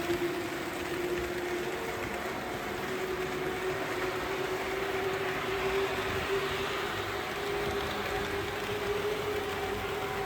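HO-gauge model trains running on the layout track: a steady motor hum with wheel and track noise, the hum rising slightly in pitch about halfway through.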